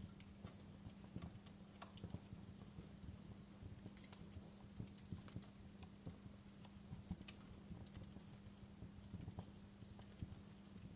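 Fireplace fire crackling: irregular sharp pops and snaps, several a second, over a low steady hum.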